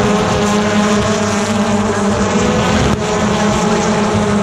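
A pack of BTCC touring cars, turbocharged 2.0-litre four-cylinder engines, running hard through a corner, many engine notes overlapping in a steady, loud blend. The level dips slightly about three seconds in.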